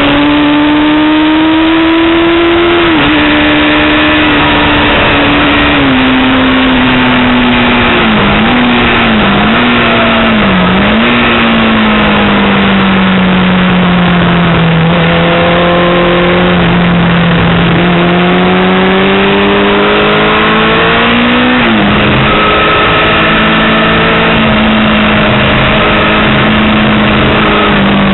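Yamaha R6 sport bike's inline-four engine revving hard on track, its pitch climbing through the gears and dropping sharply at each shift, with a few quick throttle blips on downshifts into a corner. Heavy wind rush over the engine note.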